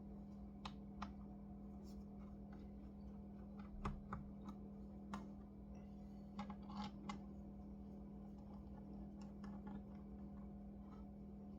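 Light, irregular clicks and taps from hands handling a laptop, over a steady low hum. The clicks are loudest about four seconds in and again a little before the middle.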